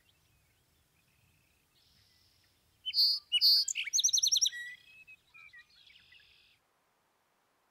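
Songbird singing: a loud, quick phrase of high chirps and trills about three seconds in, trailing off into a few softer notes. The sound then cuts off.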